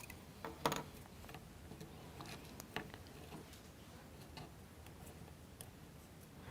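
Faint, scattered clicks and taps of small plywood model-kit parts being handled and fitted together.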